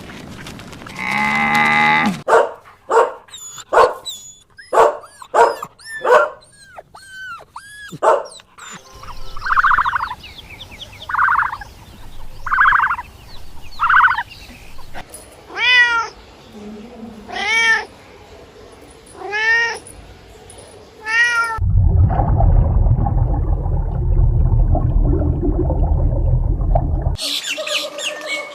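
Animal calls of several kinds in succession: a quick run of short calls that rise and fall in pitch, then four buzzy calls, then five arched, drawn-out calls, followed by about five seconds of a low, rough, loud noise near the end.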